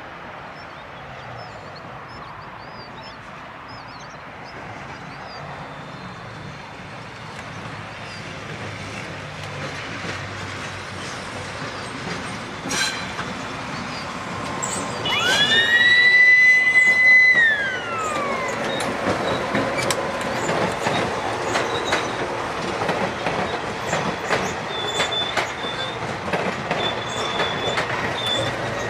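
Metrorail electric multiple-unit commuter train approaching and passing close by. A rising rumble is followed about halfway through by one loud horn blast of about two seconds that drops in pitch as it ends. Then come the rattle and rapid clicking of the wheels over the rail joints as the coaches go by, with brief wheel squeals near the end.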